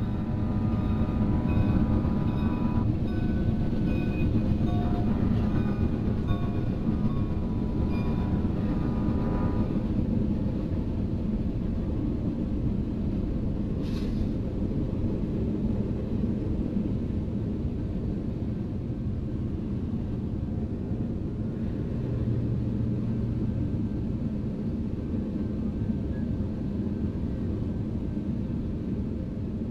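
Passenger train rolling past a grade crossing, a steady heavy rumble of wheels on rail. A held multi-note tone sounds over it for roughly the first ten seconds, and there is one sharp click about fourteen seconds in.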